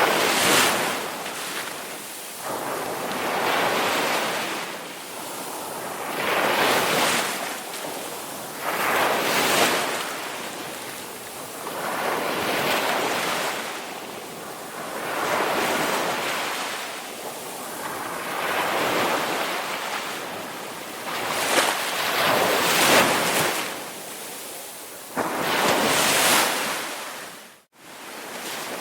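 Ocean waves breaking and washing ashore, swelling and fading about every three seconds. Near the end the sound drops out suddenly for a moment, then resumes.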